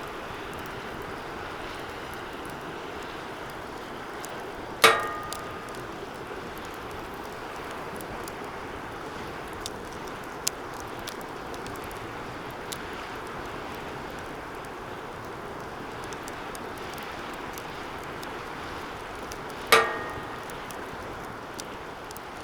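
Wood fire burning in a DOD Mecha Moe Fire 2 fire pit: a steady rushing with scattered small crackles. Twice, about fifteen seconds apart, the metal fire pit gives a sharp ringing clank.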